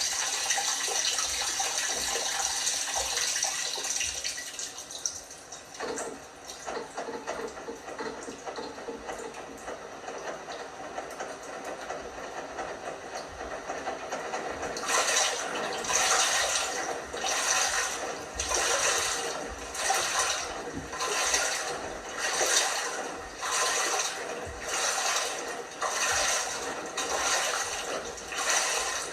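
LG washing machine in its wash cycle: water rushing in for the first few seconds, fading out, then water sloshing in the turning drum in regular surges about once a second from about halfway.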